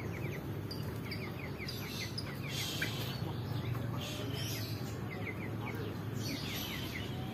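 Small birds chirping in quick runs of short, falling notes, several runs in a row, over a steady low background hum.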